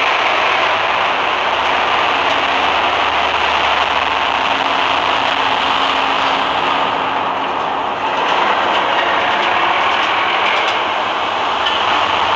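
A railway train running, giving a steady, loud rushing noise over a low hum.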